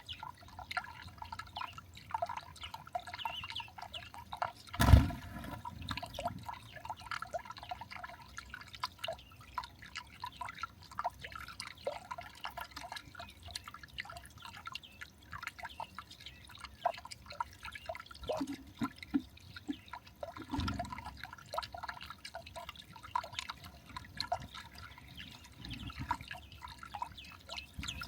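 Irregular light tapping and clicking, like drips or small pecks, with one loud knock about five seconds in and a few dull thuds later.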